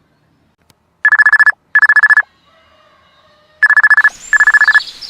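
Telephone ringtone with a trilling double ring, sounding twice.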